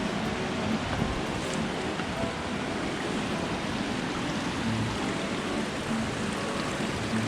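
Steady rushing of a creek and waterfall.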